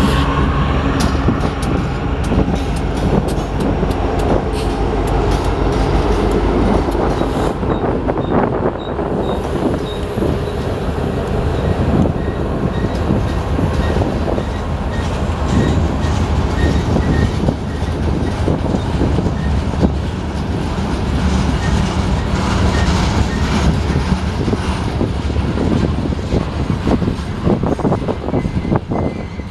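Union Pacific freight train of grain hopper cars rolling past: a steady, loud rumble of steel wheels on rail with rapid clicks as the wheels cross joints, and occasional faint high squeaks.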